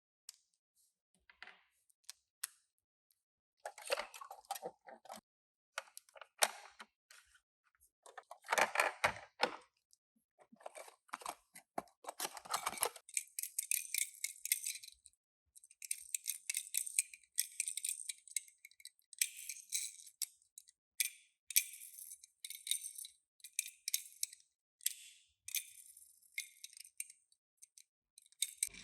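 Toy packaging and small die-cast cars being handled: irregular clicking, rattling and crinkling of cardboard and plastic. The sound is fuller in the first half and becomes thin, hissy crinkling in the second half.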